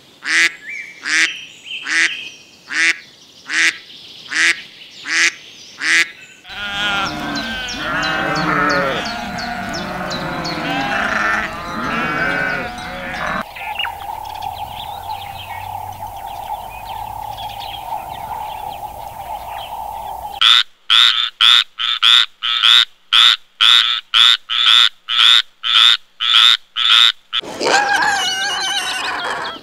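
A string of different animal calls, one after another. Mallard ducks quack in a quick, even series for the first six seconds, followed by a dense jumble of overlapping calls, a steady hum lasting several seconds, and a run of sharp calls about two a second. Piglets grunt near the end.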